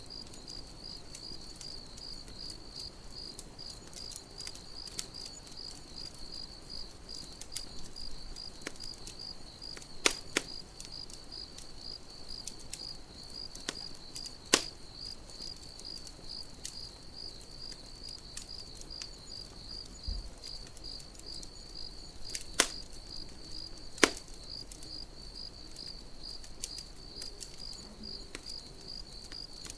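Campfire crackling with scattered sharp pops, a few of them loud, over a cricket's steady, evenly pulsing chirp.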